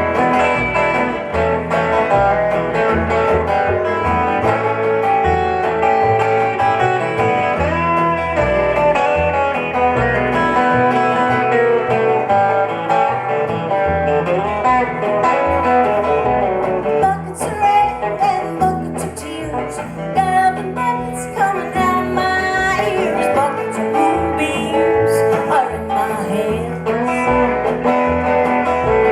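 Acoustic guitar playing a slow folk-blues song live, with singing over it from a little past halfway.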